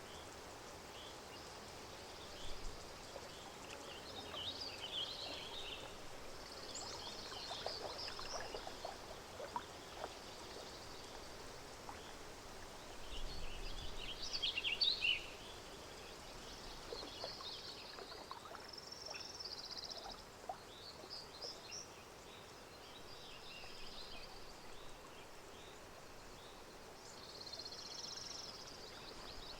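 Lakeside nature ambience: small birds chirping and calling in bursts over a steady outdoor background. Gentle water lapping and trickling, loudest about halfway through.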